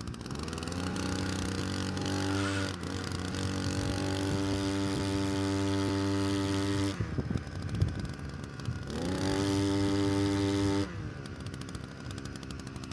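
Small petrol engine revved up to a steady high speed and held there, dropping back to idle after about six seconds, then revved up again briefly and let go. A few clattering knocks sound in the pause.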